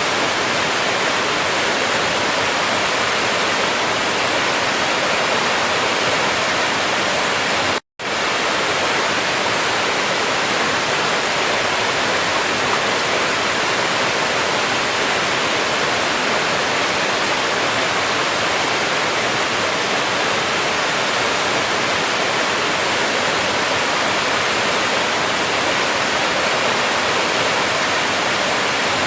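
Waterfall: a loud, steady rush of falling water, cut to silence for a split second about eight seconds in.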